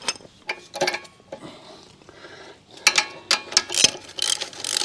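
Metal clinks and clicks from hand tools and motorcycle fork parts being handled: a few in the first second, then a quicker run of sharper clinks about three to four seconds in.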